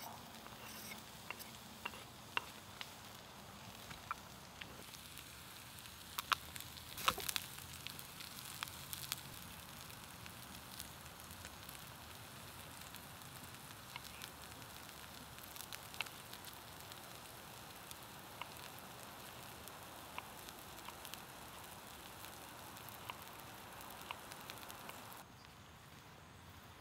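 Chopped shallots frying in a black steel pan over campfire coals: a steady sizzle with scattered sharp clicks and taps. The sizzle steps down in level near the end.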